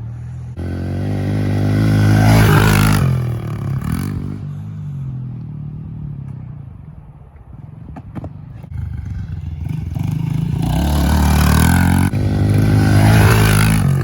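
Pit bike engine revving and running in two bursts, about a second in and again from about ten seconds in, with a quieter stretch between them broken by a couple of sharp knocks.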